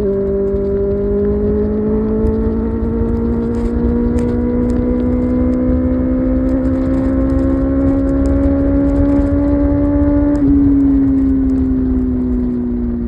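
Kawasaki ZX-6R's 636 cc inline-four engine pulling steadily under throttle, its pitch rising slowly for about ten seconds with no gear change. Near the end the throttle closes and the pitch sinks as the bike slows. Wind rush runs underneath.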